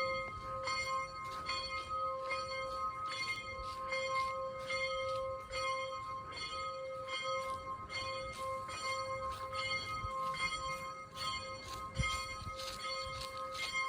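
A steady bell-like ringing, with several tones held together and short strokes repeating about twice a second. A single low thump comes near the end.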